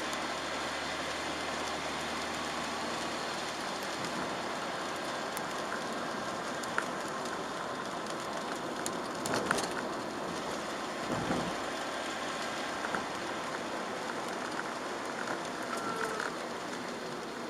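Steady hiss of rain and tyres on a wet road, heard from inside a moving car, with a few short knocks about halfway through.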